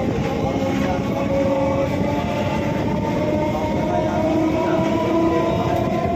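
Electric multiple-unit (EMU) local train running along the line: a steady rumble with several steady whining tones, one of which rises slightly partway through.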